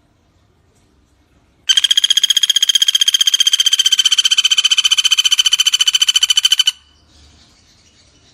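Pelatuk bawang woodpecker giving a long, rapid rattling call of even notes, about ten a second, dropping slightly in pitch. It starts nearly two seconds in and lasts about five seconds. Faint chirping comes before and after it.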